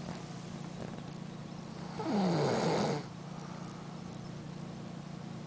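Sleeping mother dog snoring loudly: one long rasping snore about two seconds in, its pitch falling as it goes.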